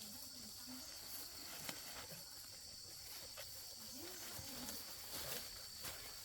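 Insects chirring in a steady high-pitched drone, with a few faint clicks.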